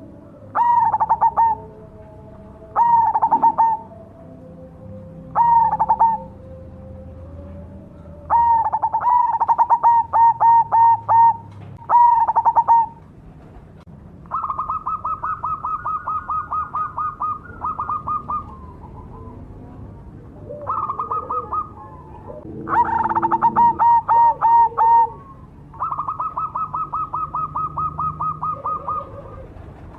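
Zebra dove (perkutut) singing repeated cooing phrases. Each early phrase is a quick run of notes ending in falling coos. About halfway through the phrases become long, even stutters of rapid notes at a slightly higher pitch.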